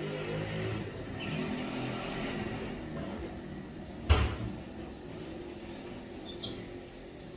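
A bird giving short chirps, about a second in and again near the end, with a low pitched sound in the first few seconds and a single sharp knock a little past the middle.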